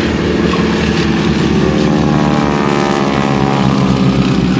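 Pratt & Whitney radial engines of a pair of Boeing Stearman biplanes running at display power in a fly-by, the engine note falling in pitch as they pass about halfway through.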